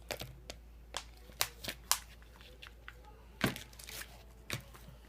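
Hands squeezing and handling a cup of Insta-Snow polymer fake snow: irregular crinkling and clicks, one sharper crackle about three and a half seconds in.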